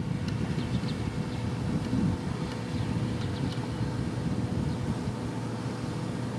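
Engine of heavy road-construction machinery running steadily: a low rumble with a faint steady whine.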